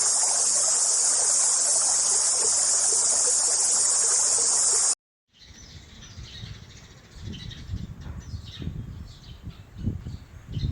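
A loud, steady, high-pitched insect chorus that cuts off abruptly about five seconds in. Quieter outdoor ambience follows, with scattered faint bird-like chirps and irregular low rumbling.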